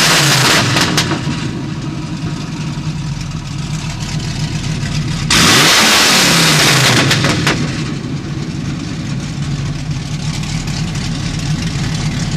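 2005 Dodge Ram SRT-10's 8.3-litre V10 on an unmuffled Billy Boat exhaust, dropping from a rev to a lumpy idle, then revved hard once about five seconds in and settling back to idle. The revs are so loud that the recording distorts into noise.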